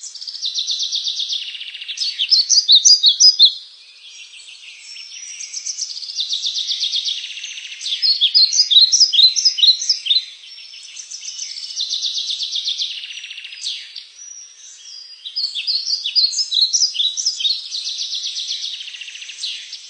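A songbird singing the same song over and over, about four times: each song opens with a fast buzzy trill and ends in a quick string of louder, clear, high notes.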